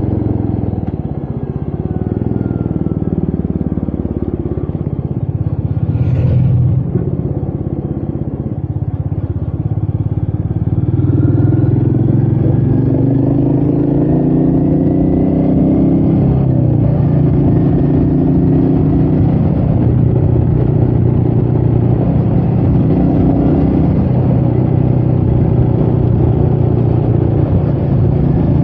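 Royal Enfield Meteor 350's single-cylinder engine running under way, its revs dipping and rising and then holding steady, with wind noise on the microphone.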